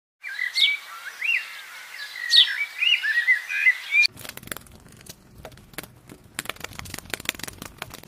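Bird chirping and twittering in short calls that sweep up and down in pitch. About four seconds in it stops abruptly and gives way to a run of quick dry clicks and taps.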